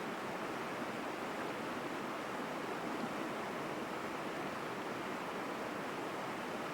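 Mountain stream flowing through forest: a strong, steady rush of water with no breaks.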